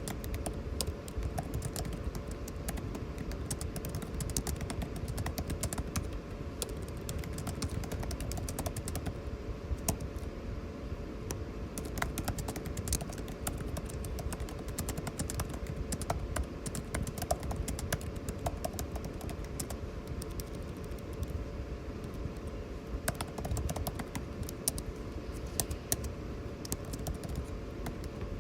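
Typing on a computer keyboard, keys clicking at an uneven pace, over the steady hum of air conditioning.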